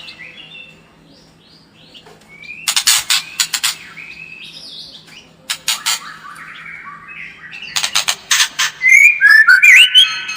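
White-rumped shama singing: several bursts of rapid harsh clicking chatter mixed with gliding whistled phrases, ending in loud clear whistles.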